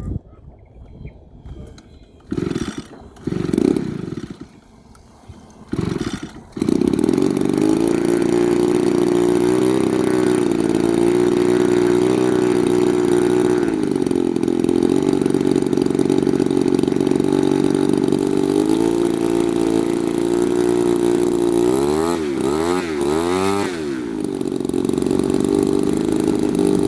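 Small grass-cutter engine powering an RC plane being started: it catches briefly a few times, then keeps running steadily from about six seconds in. Near the end, the throttle is worked up and down a few times, so the pitch rises and falls quickly before it settles back to a steady run.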